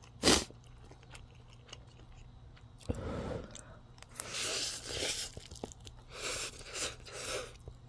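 A person chewing a mouthful of ramen noodles close to the microphone: a run of short, moist chewing sounds about two a second, after one brief knock near the start.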